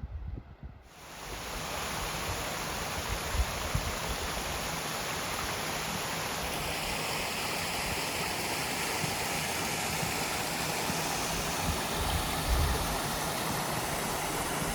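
Water rushing steadily in a small moorland stream, starting suddenly about a second in, with low wind rumble on the microphone underneath.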